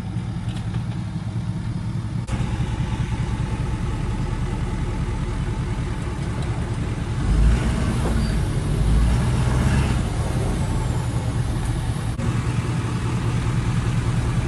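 Diesel truck engine running steadily, a little louder from about two seconds in and with heavier low rumbles around the middle.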